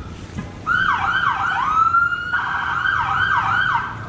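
A siren sounding: it rises to a held tone, then sweeps quickly down and up about three times a second, in a yelp-like pattern.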